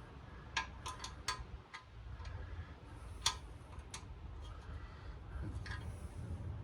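Sharp, irregular clicks and light knocks from tools and parts being handled while a Craftsman radial arm saw is taken apart, several in quick succession about a second in, then a few more spaced out. A low steady rumble runs underneath.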